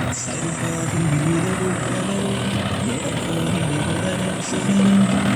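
Mahindra Yuvo 575 DI tractor's 45 hp diesel engine running steadily under load while pulling a cultivator, with a voice or melody over it.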